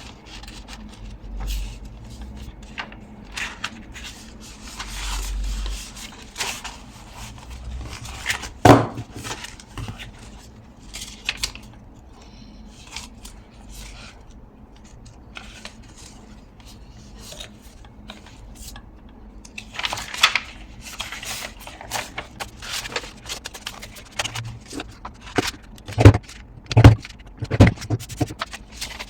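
Paper being handled and punched with a hand-operated craft paper punch: rustling and scraping of pages, with irregular sharp clicks and clunks of the punch. One loud snap comes about nine seconds in, and a cluster of heavier thumps comes near the end.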